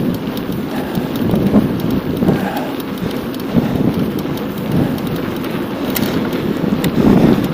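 Wind buffeting the microphone of a camera riding along on a bicycle, an uneven low rushing noise that swells and dips, with light ticks and rattles from the bike.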